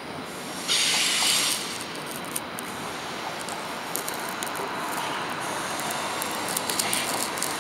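Passenger trains rolling slowly over the station tracks and switches: a steady running noise with scattered clicks and crackles from the wheels on the rails. A short, loud hiss comes about a second in.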